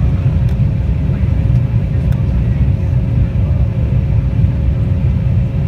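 Cabin noise of a JetBlue Embraer E190 during takeoff: the steady low rumble of its twin GE CF34 turbofans and the rushing air, heard from inside the cabin, with a faint steady hum above it.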